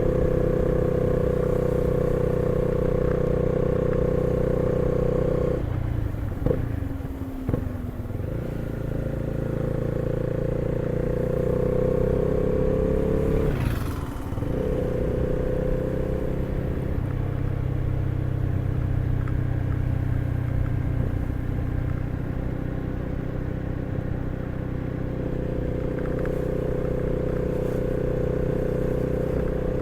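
Honda CB 300R's single-cylinder engine running on the road, heard from the rider's seat. It holds a steady pitch, eases off with a few clicks about six seconds in, then rises in pitch as the bike accelerates. After a short break about halfway, as in a gear change, it settles back to steady cruising.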